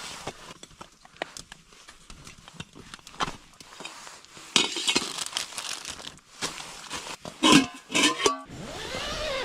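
Crinkling and rustling of camping gear being handled, with scattered clinks and knocks; the rustling gets louder about halfway through and again near the end.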